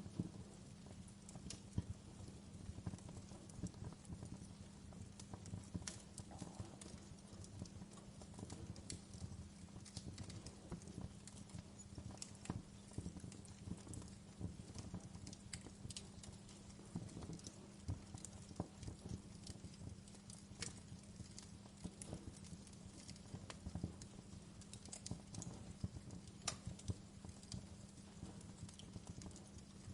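Wood fire crackling: irregular sharp pops and snaps from burning wood, scattered throughout, over a steady low rumble.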